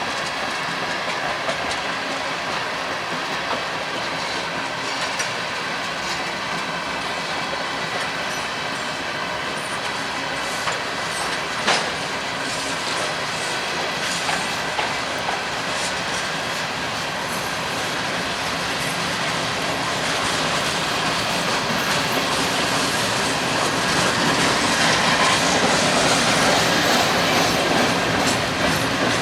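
CPKC freight train cars rolling past on a curve, wheels clicking over the rail joints with some wheel squeal. The sound grows louder toward the end, with one sharp clank near the middle.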